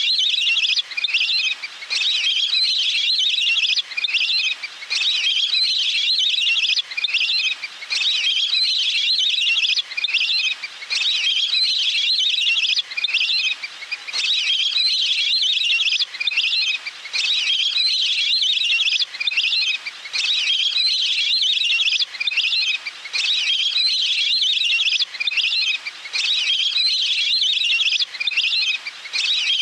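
Wild duck calls: high-pitched calls repeated in quick runs of a second or two with short breaks, over and over. This is a call played to lure wild ducks in.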